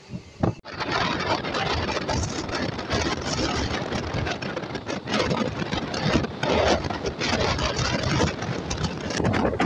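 Passenger train running at speed, heard from an open doorway: a loud, steady rush of wheel, rail and air noise with small knocks running through it. It cuts in abruptly about half a second in.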